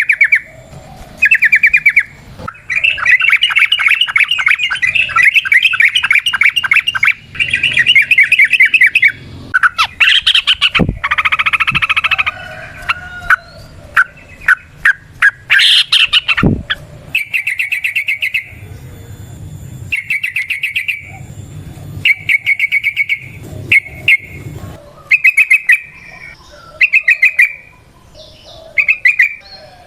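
Yellow-vented bulbul (trucukan) singing: a long, fast rolling trill runs for about six seconds early on. Short, quick bubbling phrases follow, repeated every second or two.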